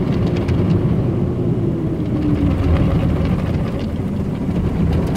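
Automatic car wash running: a loud, steady rush of spraying water and machinery under a faint hum. The hum dips slightly in pitch about two and a half seconds in.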